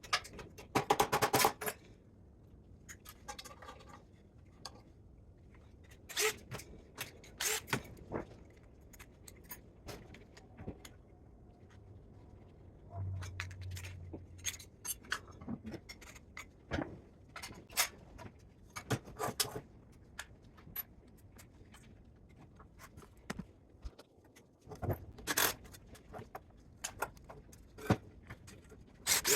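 Scattered metallic clinks, clanks and scrapes of tools and metal parts being handled as a spot welder is taken apart for scrap, with a brief low hum about thirteen seconds in.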